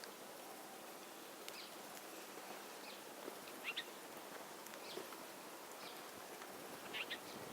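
Birds chirping: short, high, separate chirps about once a second over a steady faint hiss, with a quick double chirp near the end.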